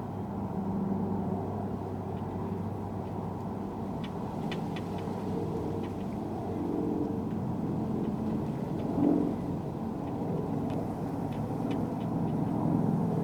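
Strong Santa Ana wind blowing across the microphone as a steady low rumble, swelling briefly about nine seconds in, with a few faint ticks.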